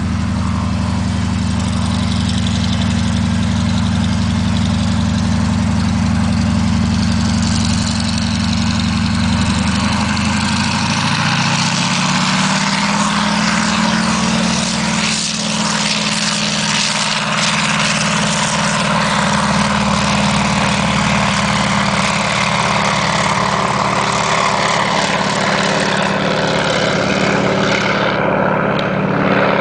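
Air Tractor agricultural plane's engine and propeller running up for takeoff. A steady, lower-pitched run gives way about ten seconds in to a rise in pitch as power comes up, then holds at a steady full-power drone with a heavy rush of noise.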